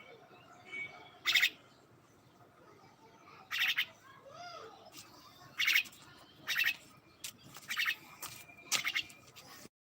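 Common myna calling: about six short calls, one every second or two, with a faint thin whistle in between.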